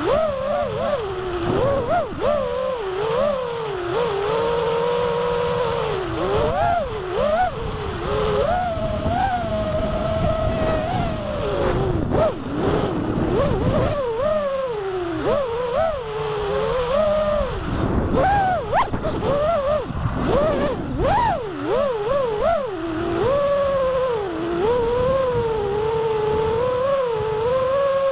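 FPV quadcopter's brushless motors whining as it flies, the pitch rising and falling constantly with the throttle.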